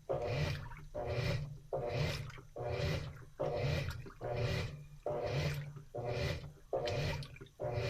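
Washing machine running its wash cycle: the drum turns with water inside, giving a regular surging swish a little more than once a second over the motor's hum.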